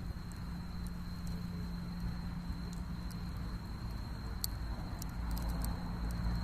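Insects singing in one steady high-pitched trill, over a steady low rumble with scattered faint ticks.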